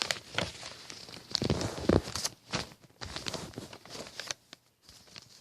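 A sheet of lined paper rustling and crinkling as it is folded and creased by hand: irregular short scrapes and crackles, busiest in the first few seconds and thinning out near the end.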